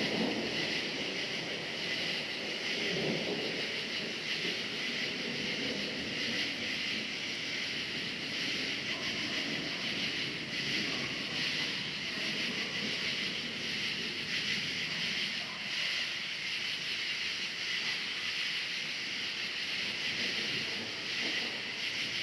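Crickets chirping in a steady chorus, with a low rumble of distant thunder that is strongest at the start and swells again about three seconds in, then fades to a faint background rumble.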